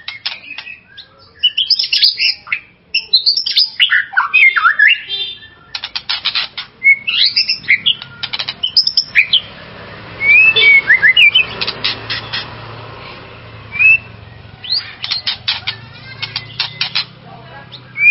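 White-rumped shama (murai batu) singing energetically: rapid harsh chattering rattles alternating with clear, slurred whistled notes and quick rising and falling phrases, with brief pauses between bursts.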